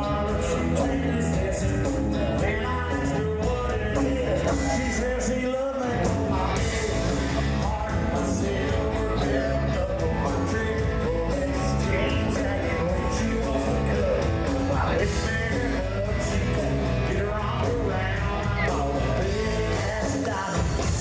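Live country-rock band playing at concert volume, with a steady drum beat and heavy bass under the guitars.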